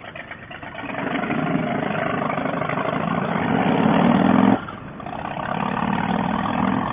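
Harley-Davidson Softail CVO Fat Boy's V-twin engine pulling under throttle and growing louder, cutting back sharply for a gear change about four and a half seconds in, then pulling again, heard through a helmet microphone.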